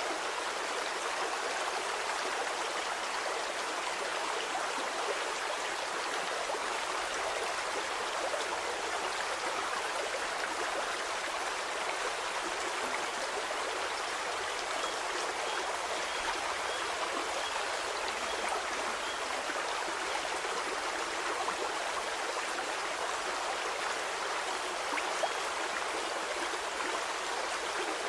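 Stream water flowing steadily: a continuous, even rush and babble of running water.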